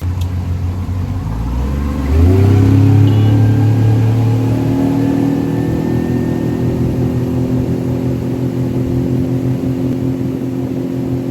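Boat motor running under way, revving up about two seconds in and then holding a steady speed.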